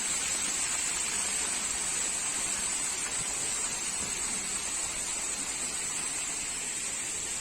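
Steady rushing hiss with a narrow high-pitched band running through it.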